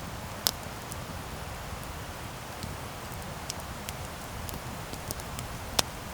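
Campfire burning, wood crackling with scattered small ticks and two sharper pops, one about half a second in and one near the end, over a steady low rumble.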